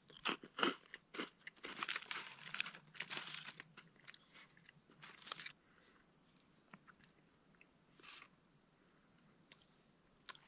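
Crunching and chewing of a brittle freeze-dried ice cream sandwich, dense over the first five or six seconds and then only a few scattered crunches.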